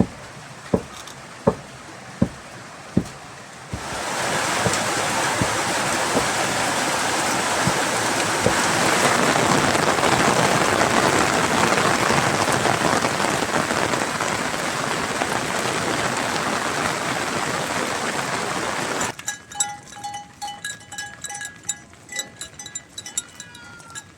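Heavy rain falling steadily. It begins about four seconds in, after a few separate drops. Near the end it cuts off suddenly to quieter, repeated high chirping.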